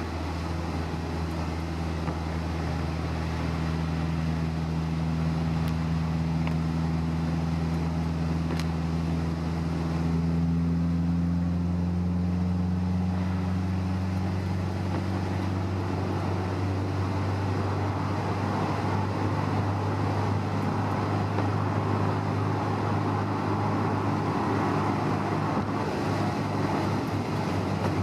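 Honda S2000's inline-four engine at a steady cruise, heard from inside the car with tyre and road noise. About halfway through, the engine note rises slightly, then fades under the growing road noise.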